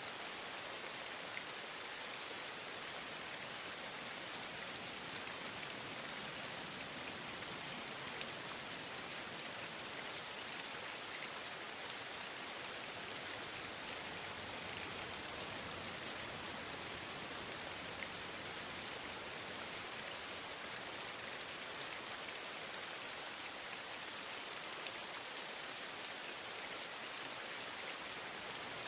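Steady rain falling, with scattered faint ticks of individual drops.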